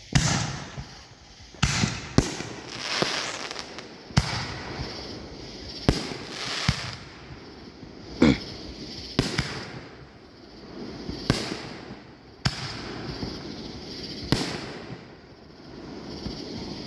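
Fireworks going off: about ten sharp bangs at irregular intervals, with a hiss between them.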